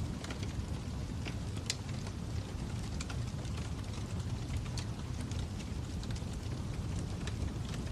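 Fire crackling: irregular sharp pops and snaps over a steady low rumble of flames.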